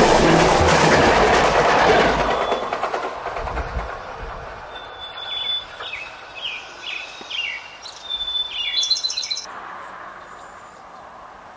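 Passenger train coaches rushing past at speed, a loud rumble and rush of wheels and air that fades away over the first few seconds. Then birds chirp with short falling calls and a quick run of high notes, followed by a faint steady hiss near the end.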